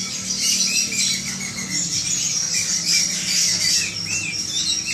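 Many caged birds chirping and squawking at once: a dense, unbroken high-pitched chatter of overlapping calls, with a steady low hum beneath.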